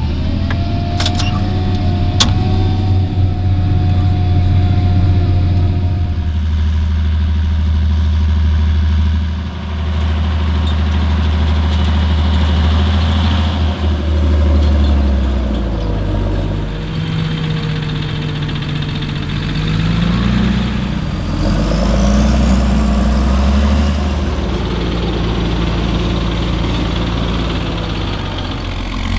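Diesel engines of large farm machinery running under work, with the engine note shifting and rising and falling in pitch as the revs change.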